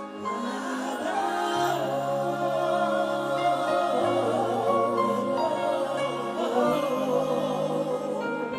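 Gospel worship music: many voices singing together in sustained, wavering tones over long held low chord notes that shift every couple of seconds.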